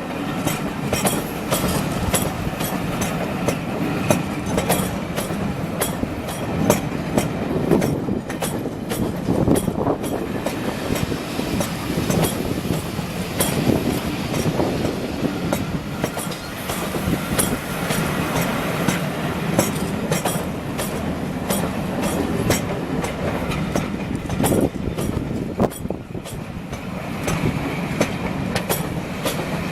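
A train rolling slowly over the track, its wheels clicking irregularly over rail joints and points above a steady rumble.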